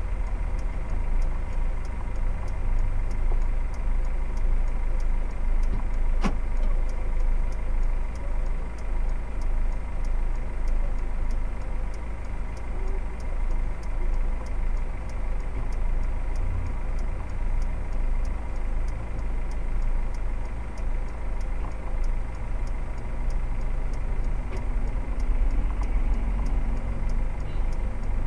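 Car engine idling at a standstill, a steady low rumble heard from inside the cabin, with faint regular ticking throughout and one sharp click about six seconds in.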